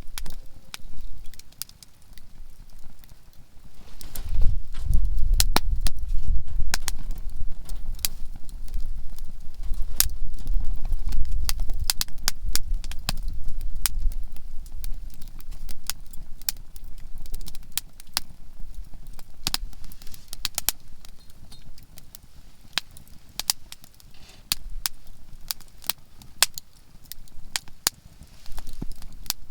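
Conifer firewood burning in a campfire, crackling with many sharp irregular pops and snaps. A low rumble swells up from about four seconds in and fades again about ten seconds later.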